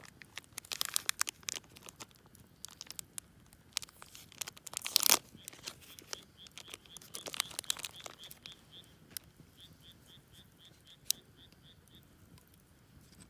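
Irregular crinkling and rustling handling noise with sharp crackles, loudest in a burst about five seconds in. From about halfway a faint high chirp repeats about three times a second for several seconds.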